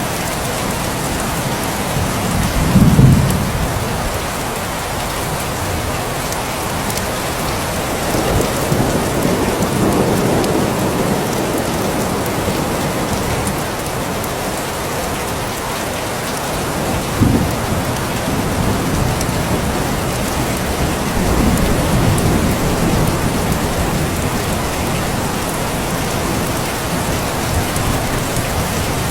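Steady heavy rain falling, with several low rumbles of thunder rising out of it, the loudest about three seconds in.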